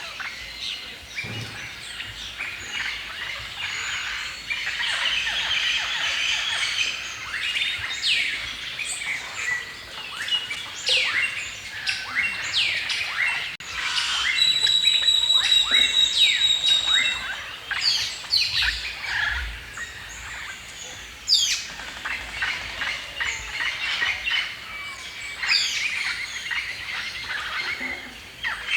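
Many songbirds chirping and singing together in a dense chorus of quick, high calls. About halfway through, one steady high whistle is held for about three seconds above the chorus.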